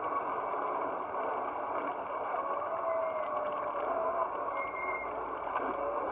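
Ford Escort rally car's 1600 crossflow four-cylinder engine running under load, heard from inside the car, its note rising and falling as the car is driven through bends.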